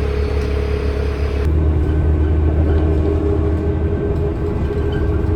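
Steady low vehicle rumble with a droning hum, as heard riding inside a vehicle; the sound changes abruptly about a second and a half in.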